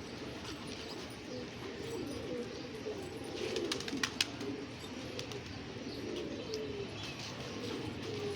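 Domestic pigeons cooing continuously, several low warbling coos overlapping, with a few sharp clicks about three and a half to four seconds in.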